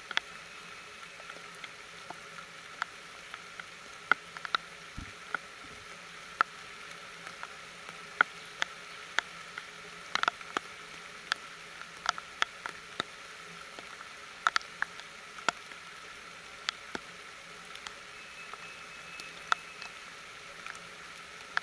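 Rain falling and dripping on a plant nursery's netted structure and potted conifers. A steady soft hiss runs underneath irregular sharp drop ticks, about two a second.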